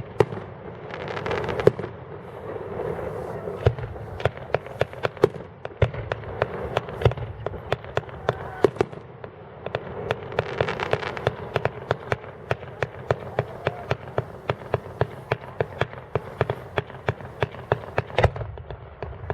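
Fireworks going off: a steady string of sharp cracks and bangs that comes faster and denser from about halfway through, with hissing rushes near the start and again around the middle.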